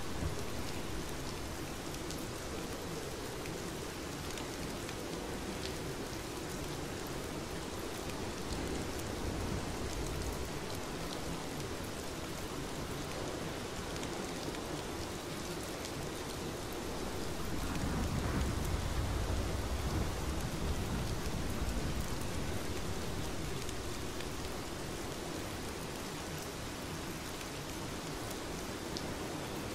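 Steady, dense rainfall with fine patter of drops. A low rumble swells for a few seconds a little past the middle, then fades back into the rain.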